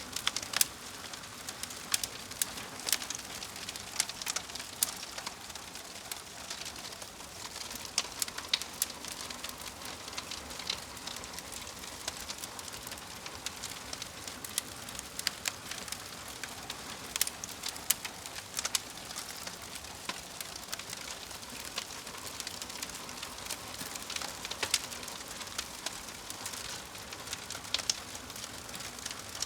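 Wood fire crackling, with frequent sharp, irregular pops and snaps over a soft steady hiss.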